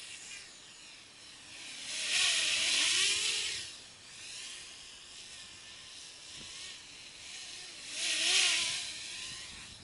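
Small 200mm quadcopter's brushless motors and propellers buzzing in flight, the pitch wavering as the throttle changes. The sound swells much louder twice, about two seconds in and again near the end.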